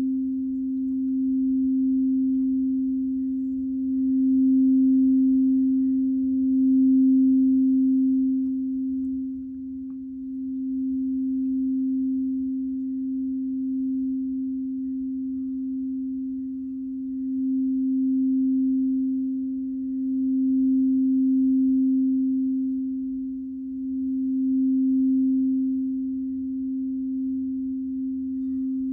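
Crystal singing bowl ringing as it is played around the rim: one sustained, nearly pure low tone that slowly swells and fades several times without breaking off.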